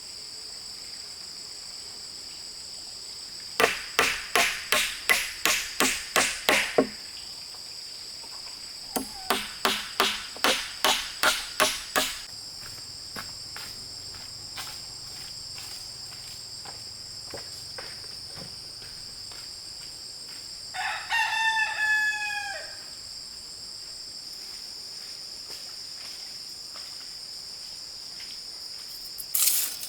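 A steady high-pitched insect drone runs throughout. Over it come two runs of about ten sharp knocks each, roughly three a second, and later a rooster crows once.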